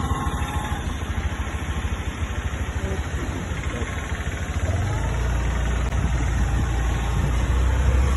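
A vehicle engine running with a rapid, even pulsing. About halfway through it gives way to a steadier, heavier low rumble.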